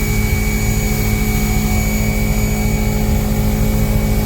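A portable generator's engine and a Portland 1750 PSI electric pressure washer running together while spraying, a loud steady mechanical hum with a constant low tone.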